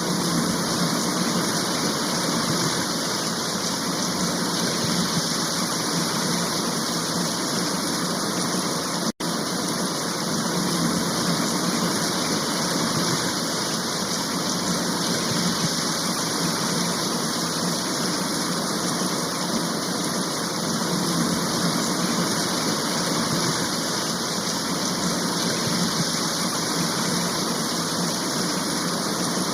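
Heavy rain shower falling, a steady even hiss of downpour that cuts out for an instant about nine seconds in.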